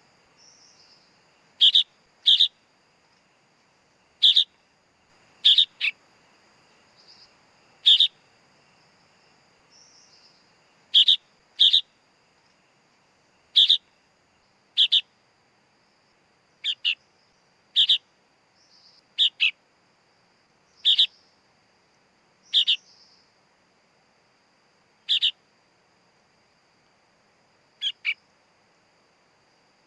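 Sooty-headed bulbul (kutilang) chick calling: short, sharp, loud calls, singly or in quick pairs, every one to three seconds, with fainter softer calls in between.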